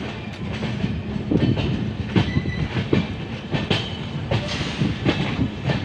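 Passenger express train rolling into a station, heard from an open coach door: a steady low rumble from the wheels and track, broken by irregular clacks and knocks as the wheels cross rail joints.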